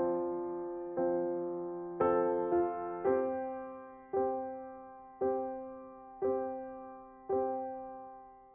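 Background piano music: slow, soft chords struck about once a second, each one decaying. The last chord rings out near the end.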